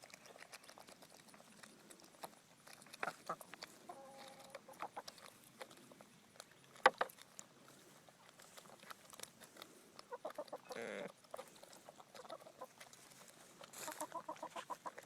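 Chickens clucking in short bursts while their beaks peck into a bucket of water after drowned Japanese beetles, with many quick sharp taps and clicks and one louder knock about seven seconds in.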